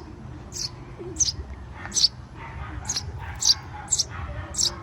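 Young birds chirping: about seven short, high-pitched chirps, repeated roughly every half second.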